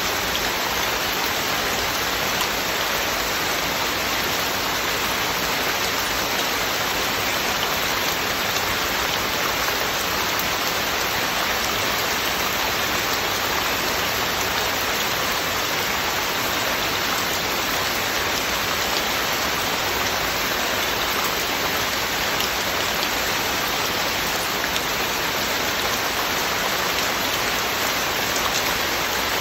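Heavy rain falling steadily: a dense, even hiss with no breaks or changes.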